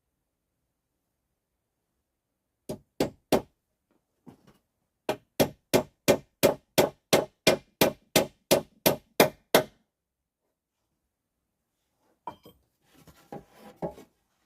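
Repeated hard blows of a hand tool, like hammering: three strikes, a short pause, then a steady run of about fifteen strikes at roughly three a second. Faint scraping and rustling follow near the end.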